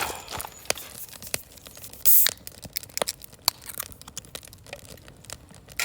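Wood fire crackling in a large fire pit, with irregular sharp pops and one louder, brief burst of noise about two seconds in.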